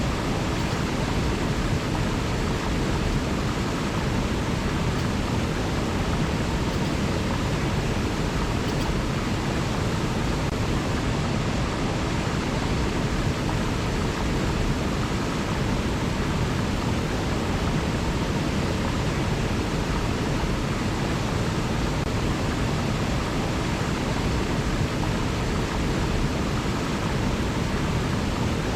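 River water rushing in a steady, unbroken wash, fullest in the low end, with no birdsong or other events over it.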